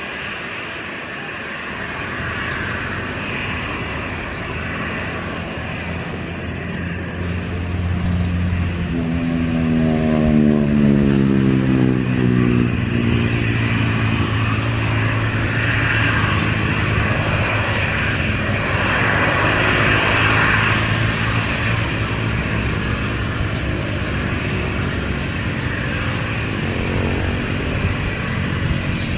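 Jet airliner passing close by: its engine noise builds, and about nine seconds in a tone drops steeply in pitch as it goes past, settling into a lower steady drone.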